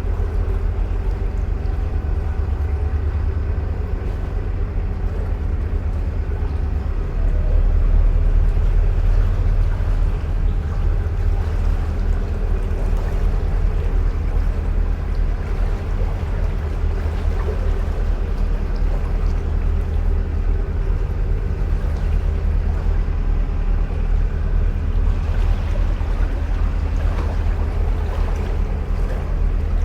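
Narrowboat's diesel engine running steadily under way, with an even low throb; it gets a little louder about seven seconds in.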